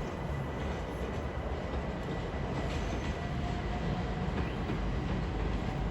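Electric train running through the station, a steady low rumble with a faint whine over it.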